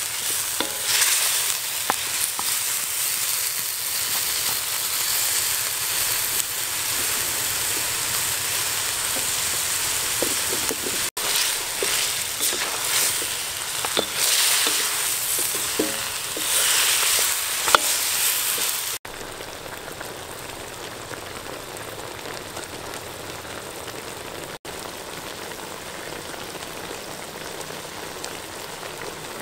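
Chicken feet sizzling in hot oil in a pan, stirred with a wooden spatula, the sizzle swelling as they are turned. About 19 seconds in, it drops to a quieter, steady sizzle.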